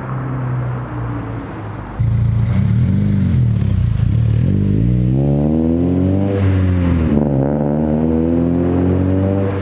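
Acura RSX Type S four-cylinder engine with aftermarket header and cat-back exhaust, running steadily for about two seconds, then suddenly louder as it pulls away: the pitch swells and falls, climbs steadily, drops sharply at a gear shift about seven seconds in, and climbs again.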